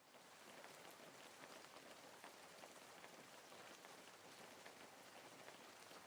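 Faint, steady rain, with many small drops pattering.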